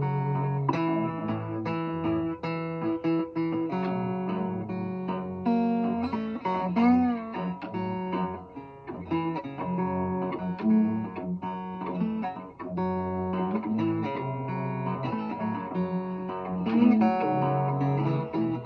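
Bottleneck slide guitar playing a blues instrumental passage: plucked notes, with a note slid and wavered about seven seconds in.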